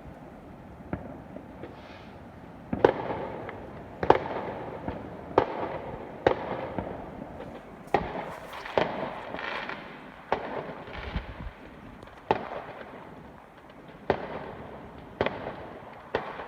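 Fireworks going off: about a dozen sharp bangs at irregular intervals, each with a short fading tail.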